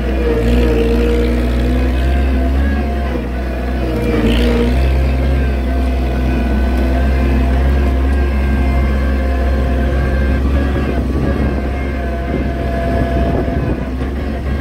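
Oliver 770 tractor's six-cylinder engine running steadily under working load.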